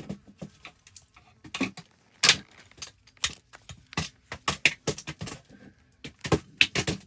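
Irregular scraping, clicking and knocking of a stick being poked around in a rocky hole, a quick run of sharp hits about six seconds in.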